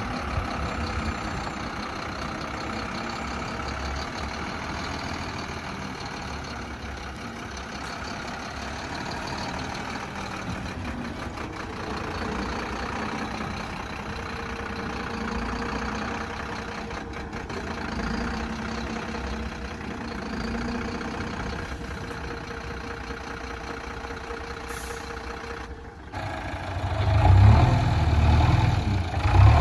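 Diesel engine of heavy earthmoving machinery running steadily. After a brief dip about 26 seconds in, a louder, deeper engine rumble takes over for the last few seconds.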